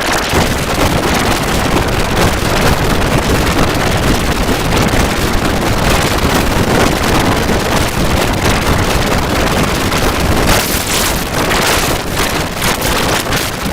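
Loud, harsh, steady noise like static, filling every pitch from low to high: the ident's audio smeared by a heavy digital distortion effect. It starts abruptly and holds with only slight flicker.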